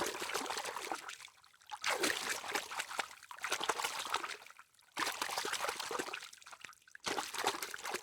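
Water trickling and splashing, a fine crackling wash with abrupt breaks about five and seven seconds in.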